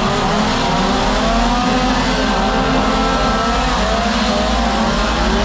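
Gas chainsaw engines revving up and down, the pitch rising and falling continuously and overlapping as if more than one saw is running.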